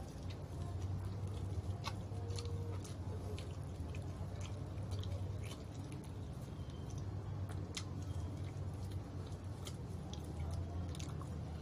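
Chewing and biting into crispy fried chicken: scattered small crunches and mouth clicks over a steady low hum.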